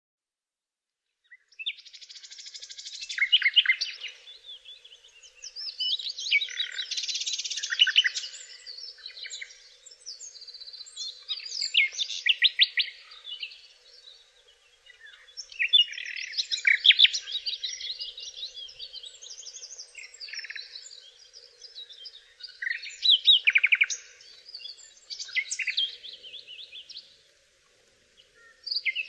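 Songbird singing: a string of rapid, trilled phrases, each a few seconds long with short pauses between them, starting about a second and a half in.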